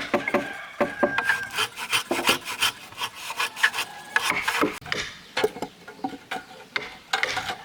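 A hand tool scraping wood in quick, uneven back-and-forth strokes, several a second. The strokes thin out about five seconds in and pick up again briefly near the end.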